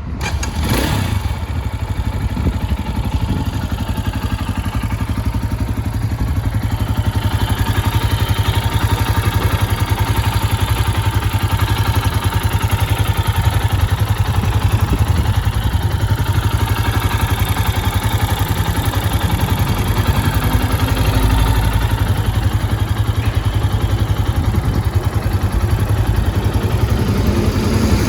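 Gilera SMX 250 motorcycle's single-cylinder engine idling steadily at a constant low pitch.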